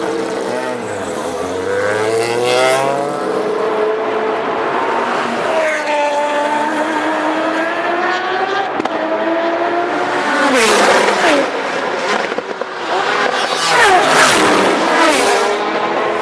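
Mazda 3 race car's 20B three-rotor rotary engine at high revs, its pitch climbing and dropping repeatedly as it goes through the gears. In the second half it twice falls sharply and then climbs again, with sharp pops at those moments.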